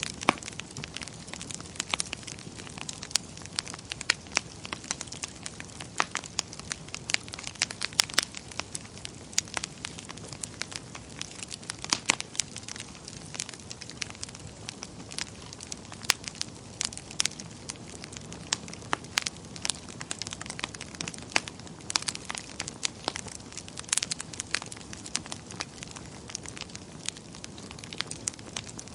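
Wood fire burning in a fireplace, crackling with frequent irregular sharp pops over a steady low hiss.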